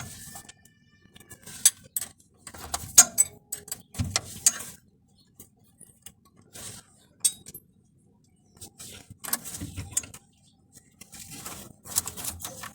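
Metal hand tools and bolts clinking and knocking in irregular bursts while the starter motor's wiring and mounting bolts are undone, with a brief metallic ring near the start and a few seconds' pause in the middle.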